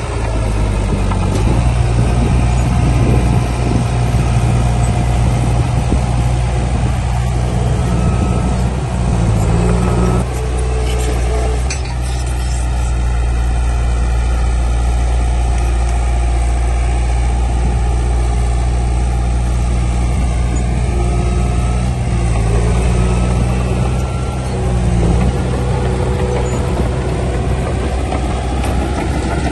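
Heavy diesel engine of earthmoving machinery running steadily with a deep, low drone, its note shifting a few times as the load changes.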